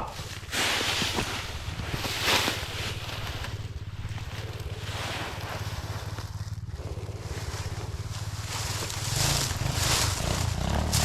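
Small dirt bike engine running steadily at low revs, picking up and starting to rev higher near the end, with gusts of wind noise on the microphone.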